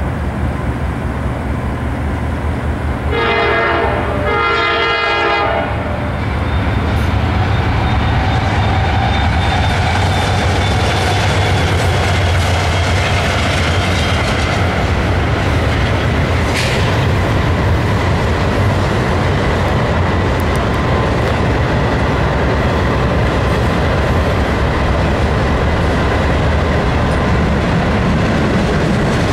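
A diesel freight locomotive's horn sounds two blasts of about a second each a few seconds in, then a loaded freight train runs close by: the steady low drone of its diesel engines under the rumble and clatter of wheels on rail.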